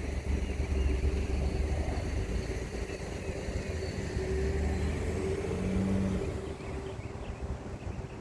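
An engine running steadily with a low rumble and a held hum, fading out about six and a half seconds in.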